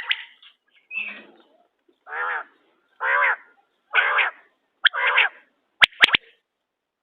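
Quail calling: sharp high chirps near the start and near the end, with four longer, lower, drawn-out calls about a second apart between them.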